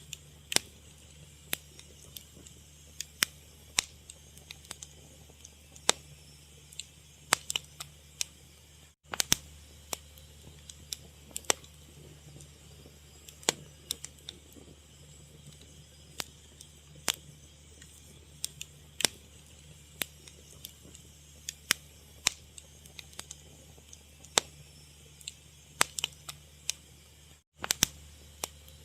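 Fire crackling: irregular sharp pops and snaps, a few each second, over a low steady hum. The sound cuts out for a split second twice.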